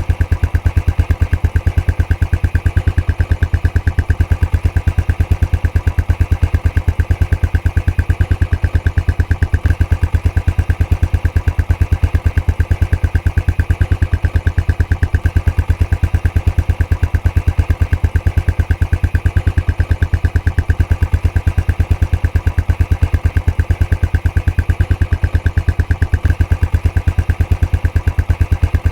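Royal Enfield Classic 500's single-cylinder engine idling steadily through its stock exhaust, an even, rapid train of exhaust pulses with no change in speed.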